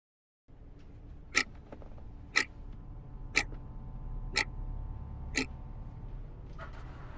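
Wooden longcase pendulum clock ticking, five sharp ticks a second apart, over a low steady hum.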